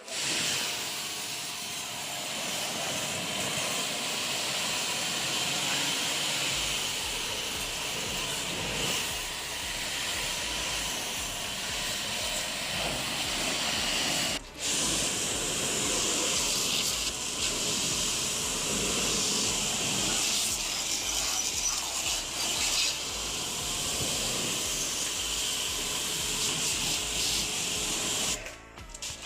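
Steady hissing spray, with a low hum joining about six seconds in; it breaks off for an instant about halfway through.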